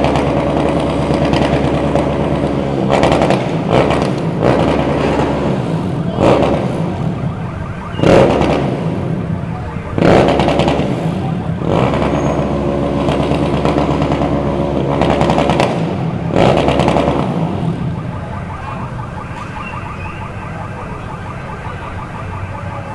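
Sport motorcycle engine revved in sharp, repeated blips over a steady idle, a burst about every two seconds. Near the end it settles back to a steadier idle.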